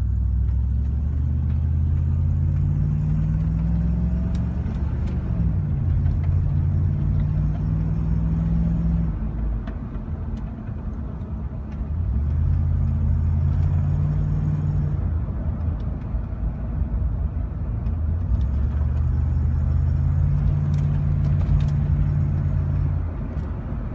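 Car engine idling with a low droning hum that swells and fades three times, rising slightly in pitch and then dropping about five seconds in.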